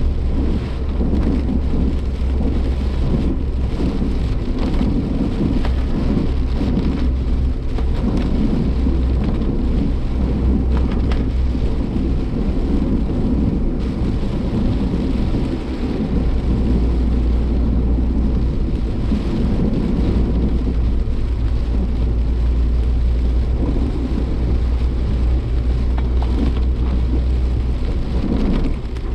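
Heavy rain and gusting wind hitting a moving Suzuki Jimny Sierra, heard from inside the cabin over a deep, steady rumble of road and engine noise.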